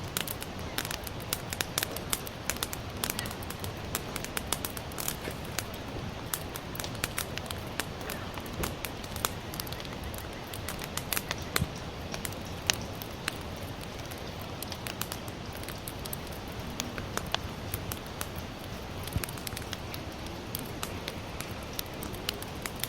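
Campfire of sawtooth oak logs burning, crackling with many sharp, irregular pops over a steady hiss.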